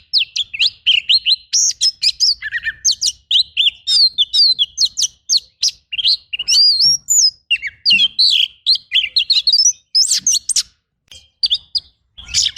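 Oriental magpie-robin (kacer) singing a fast, dense song of varied whistles, sharp notes and quick up-and-down glides. It thins to a few scattered notes briefly near the end, then picks up again.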